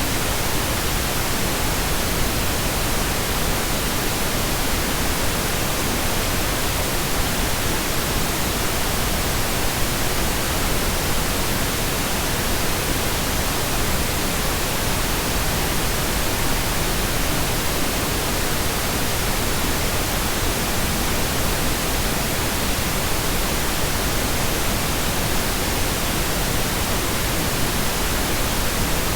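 Steady pink noise: an even, unchanging hiss spread across the whole range, with no events in it.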